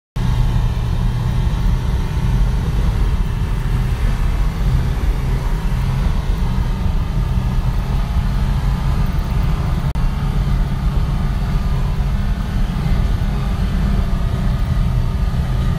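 Off-road vehicle's engine and running gear heard from inside the cabin while driving over snow: a steady low drone.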